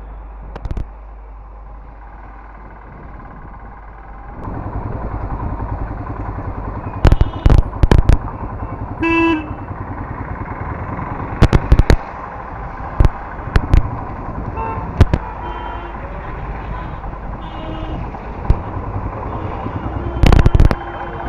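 Motorcycle riding through city traffic, its engine and road noise running steadily and getting louder about four seconds in. A vehicle horn honks about nine seconds in, with fainter honks later. Several loud sharp thumps come in clusters.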